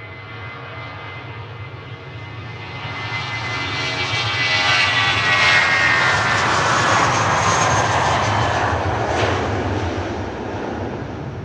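Airbus A320-200 twin jet engines at takeoff power as the airliner climbs out past, growing louder to a peak about halfway through and then fading. A high fan whine drops in pitch as it goes by, over a wide jet rumble.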